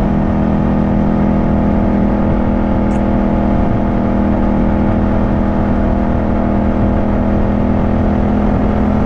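Yamaha 689 cc parallel-twin motorcycle engine running at a steady speed under way, holding an even pitch.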